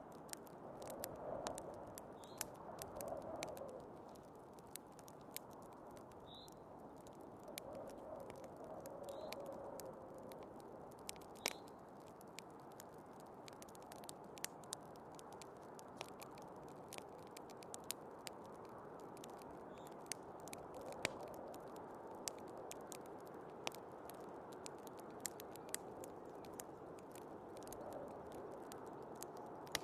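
Wood fire crackling, with sharp pops and snaps scattered irregularly throughout, over a steady rushing blizzard wind that swells gently a few times.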